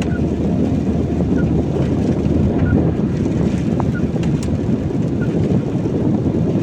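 Car cabin noise while driving in the rain: a steady low rumble of engine and tyres on a wet road, with a faint short high chirp repeating about every second and a quarter.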